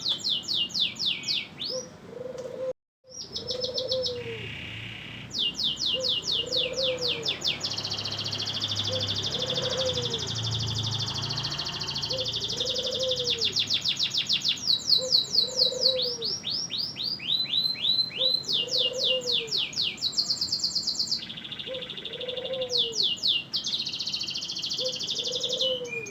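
Domestic canary singing continuously: fast rolling trills and rapid runs of repeated high notes, with a brief cut-out about three seconds in. A short low note repeats about once a second underneath.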